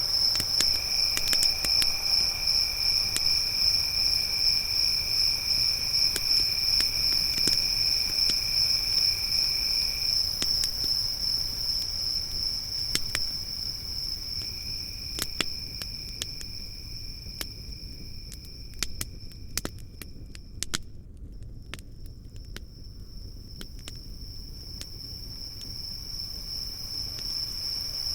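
Crickets trilling steadily in a high, fast pulsing chirr, with a second, lower-pitched insect trill that drops out and comes back. A wood campfire crackles underneath with scattered sharp pops, most of them about halfway through.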